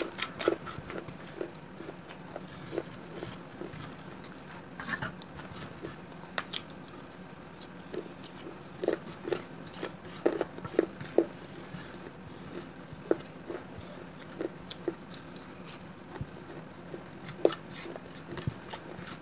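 Close-up chewing of fired clay from a gullak (clay coin bank) eaten with red clay paste: short, irregular crunches and mouth clicks, a few every second.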